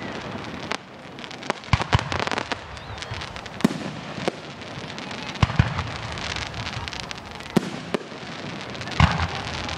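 Fireworks display: a string of sharp bangs a second or two apart, over steady crackling and hiss from the shells bursting.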